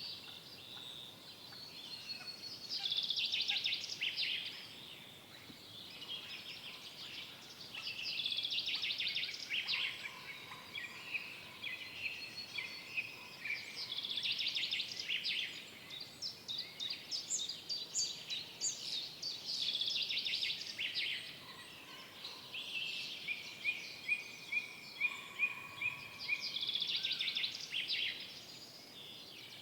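Songbirds singing in a forest: high, quick song phrases that come every five or six seconds, overlapping each other, with a short trill of evenly repeated notes about three-quarters of the way through.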